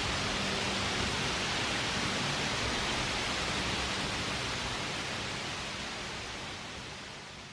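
Steady rushing noise of a waterfall, fading out near the end.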